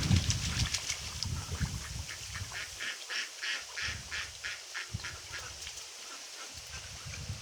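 Ducks quacking in a quick run of short calls, about four a second, from about two to five seconds in.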